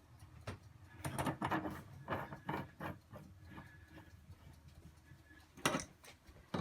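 Small metal parts of a single-control mixer tap being handled and fitted back together: a quick run of clicks and knocks about a second in, then another sharp knock near the end.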